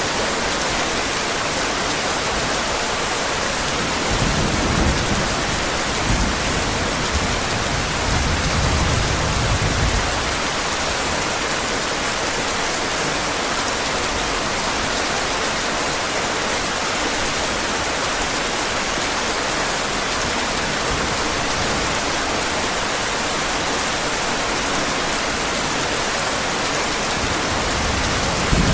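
Steady heavy rain, with low rumbles of thunder about four seconds in and again from about eight to ten seconds.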